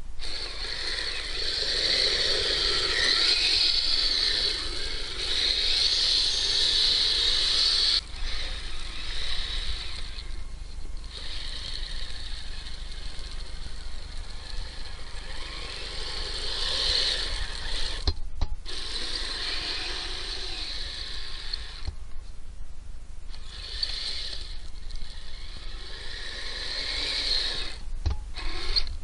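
Kyosho Blizzard RC snow vehicle's electric drivetrain whining and rattling as it drives, swelling and easing with the throttle and cutting out briefly several times.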